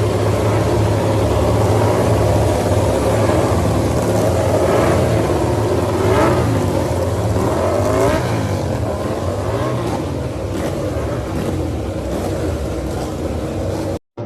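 MotoGP racing motorcycles on track, several engines revving and passing, their pitches rising and falling and crossing one another.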